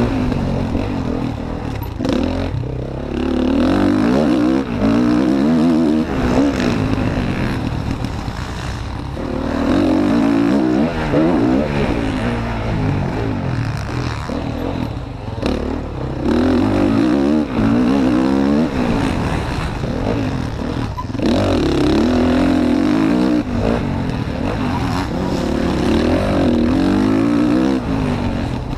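Motocross bike engine heard onboard, revving hard and easing off over and over as it accelerates and backs off. The pitch climbs in loud surges, with short drops in between.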